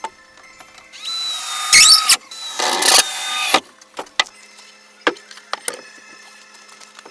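A power tool runs in two short spells, first a steady whine about a second in and then a harsher, noisier burst a couple of seconds later, among scattered knocks and taps of hand work.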